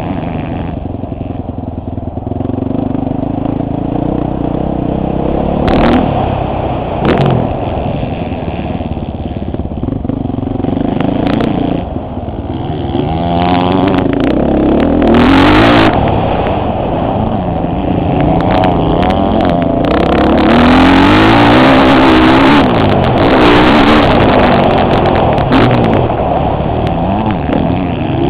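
Motocross bike engine heard from a camera on the rider's helmet, revving up and falling off over and over as the rider accelerates and backs off around the track. Sharp knocks and rattles from the bike over bumps come through, with rushing air noise in the louder stretches.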